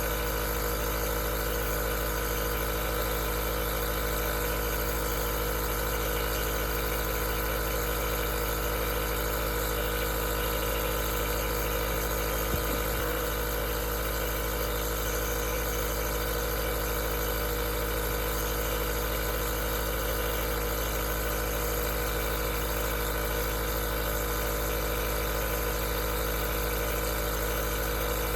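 Aerosol nebulizer's compressor running steadily: a constant motor hum with an airy hiss, with one faint tick about halfway through.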